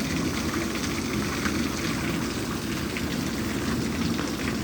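Heavy rain in a steady downpour, heard through a door open a crack: a continuous rushing of water with scattered sharp drops ticking through it.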